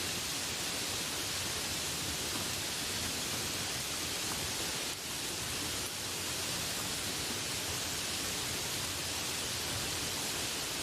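Steady rainfall, an even hiss of falling rain with no distinct drops or bird calls standing out.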